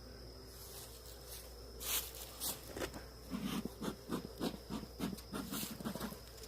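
Irregular scrapes and knocks begin about two seconds in and come in a quick run through the second half. They are the sound of a wooden hive frame being handled and slid back into the hive box.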